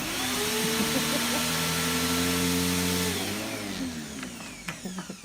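An electric appliance motor switched on suddenly, running steadily with a whine over a loud hiss, then spinning down as its pitch falls about three seconds in. A few sharp clicks follow near the end.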